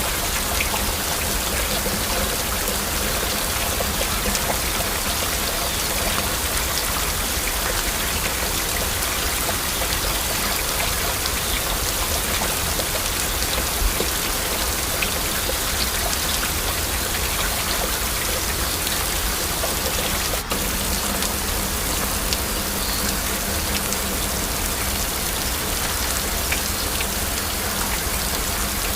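Steady heavy rain, with a dense patter of individual drops striking a surface.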